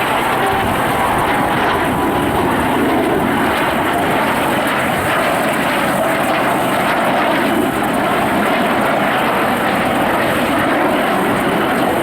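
Aircraft engine noise, loud and steady, with a faint high whine that drifts a little in pitch.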